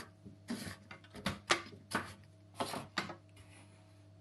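Plastic drain-pump filter of an LG washing machine being pushed back into its housing and screwed in: a run of short scrapes and clicks over about three seconds.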